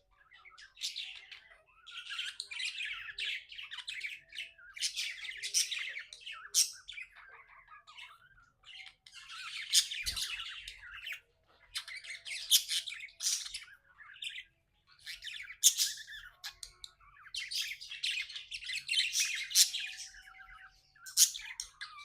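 Pet budgie chirping and warbling in busy bouts of a second or two, with short pauses and a few brief, sharp high calls between them.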